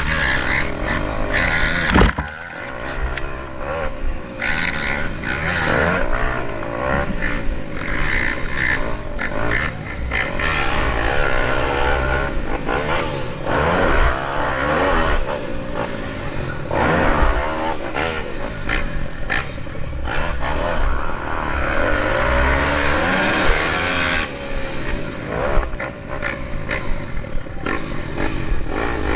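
Several pit bike engines revving up and down as they race, their pitches rising and falling over one another, with a sharp knock about two seconds in.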